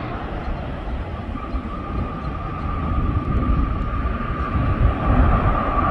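Jet engines of a cargo airliner on landing approach: a low rumble with a steady high whine that comes in about a second in and grows louder as the aircraft nears.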